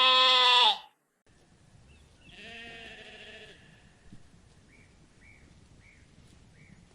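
Sheep bleating: a loud bleat lasting under a second at the start, then a fainter, wavering bleat about two and a half seconds in. Near the end come four faint short high chirps, a little over half a second apart.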